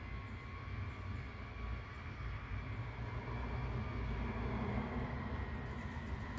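Steady low rumble of city background noise, with a faint steady hum on top and no clear bird calls.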